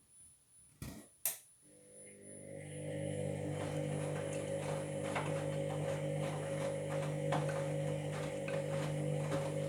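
Two sharp clicks, then a washing machine's motor starting to turn the drum and settling into a steady hum with irregular ticking on top. The owner calls this a grinding sound, which he takes as a sign of worn drum bearings.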